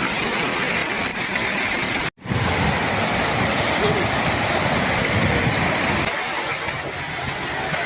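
Waterfall: steady rushing and splashing of falling water. The sound drops out for an instant about two seconds in, then resumes.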